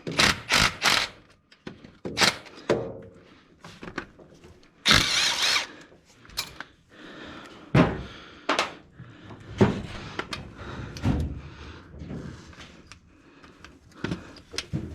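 Metal tools and engine parts knocking and clanking as bolts are worked loose during a turbocharger removal. A power tool runs briefly about five seconds in.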